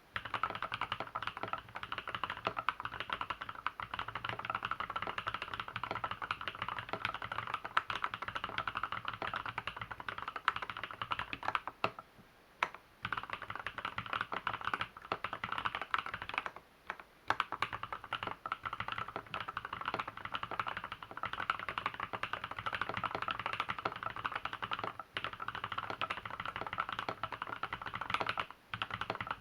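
Fast continuous typing on an LZ B7 custom keyboard, freshly reworked with lubed switches and stabilizers. It gives a steady stream of key clacks with a few brief pauses.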